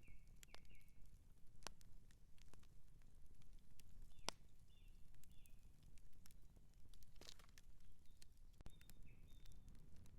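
Outdoor wood campfire crackling: irregular sharp pops and snaps over a low, steady rumble. A few short high chirps come near the start, in the middle and near the end.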